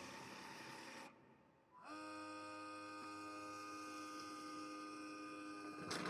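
Robot vacuum base station running its self-cleaning and drying cycle. A steady whir cuts out about a second in. After a brief near-silence a motor starts and settles into a steady hum, and there is a sharp click near the end.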